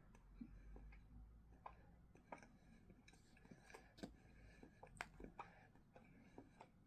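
Faint, scattered crackles and clicks of a sausage roll being eaten: biting and chewing flaky pastry.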